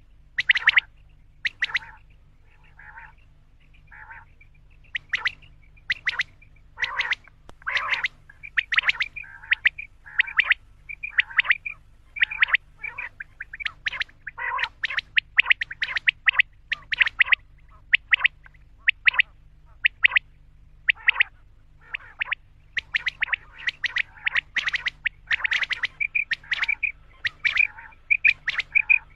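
Common quail calling: a rapid run of short, sharp notes in irregular clusters, without pause.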